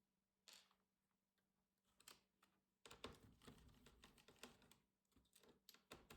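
Quiet clicks, taps and light scraping of a laptop's plastic casing and parts being handled during disassembly: a single click about half a second in, then a busy run of clicks and rattles about three seconds in.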